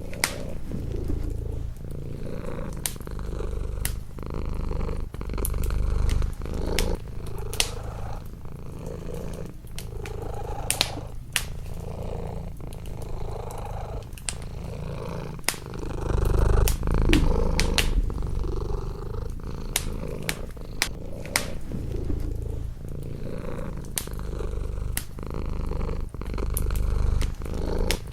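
Domestic cat purring close by, a low rumble that swells and eases every few seconds with its breathing. Sharp crackles and pops of a wood fire in a fireplace are scattered throughout.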